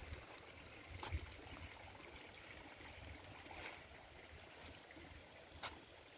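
Faint running water, with a couple of light clicks about a second in and near the end.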